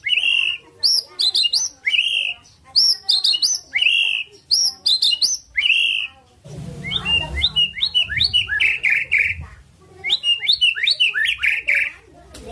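White-rumped shama (murai batu) singing loud, short phrases about once a second, each ending in a lower burred note. A few seconds in, the song turns into a denser run of chirps over a low rumble for about three seconds, then the short phrases resume.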